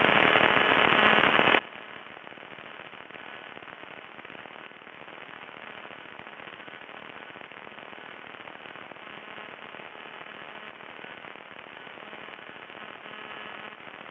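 Crackling static on the aircraft radio heard through the intercom feed. It is loud for about a second and a half, then suddenly drops to a fainter, steady crackle.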